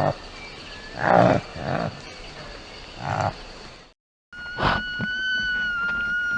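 Animal calls: four short, low, hoarse calls about a second apart, then, after a brief break, one long steady high-pitched whistling call.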